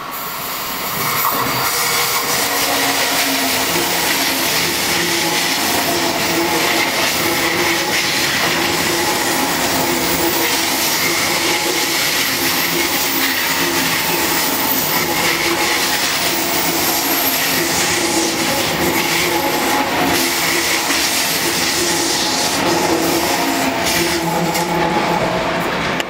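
ICE high-speed electric train passing close by: a loud, steady rush of wheel and running noise with steady humming tones through it, building up over the first two seconds as the train arrives and then holding as the long train runs past.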